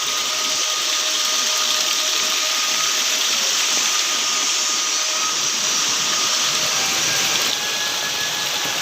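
Benang Kelambu waterfall pouring: a steady, even rush of falling water, with a few faint thin tones above it.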